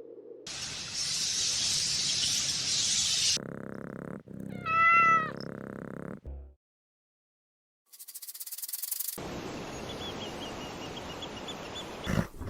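A domestic cat meowing once, a single call that rises and falls in pitch about four and a half seconds in, the loudest sound here. Before it comes a steady hiss of about three seconds; after it, a short silence, a brief burst of fast high-pitched clicking, and a noisy stretch with faint repeated chirps.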